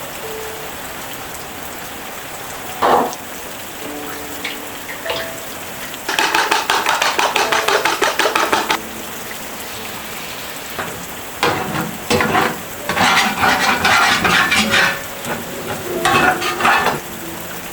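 A utensil stirring and scraping in a cooking pot in three bursts of quick strokes, with a single sharp knock about three seconds in. Steady rain runs underneath.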